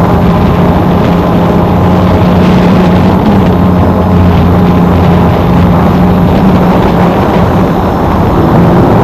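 Small drone's propellers running with a loud, steady hum, one held pitch over a rough rushing noise.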